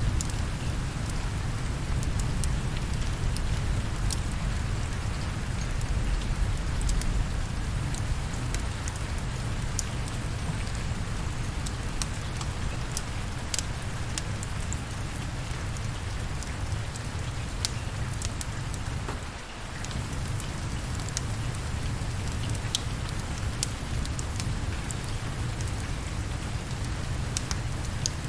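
Steady rainfall, with a low rumble underneath and scattered sharp ticks and crackles; the sound dips briefly about two-thirds of the way through.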